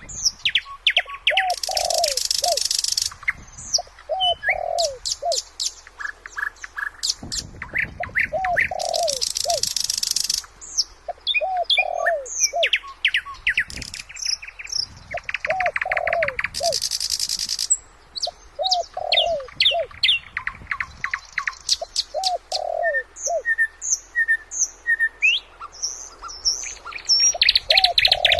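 Several birds singing and calling together. A short, low phrase repeats about every two seconds under many high chirps, fast trills and buzzy bursts.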